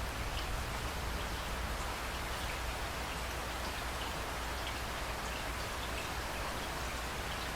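Steady rain pouring onto hard surfaces, with scattered individual drops ticking clearly above the wash of noise and a low, even rumble underneath.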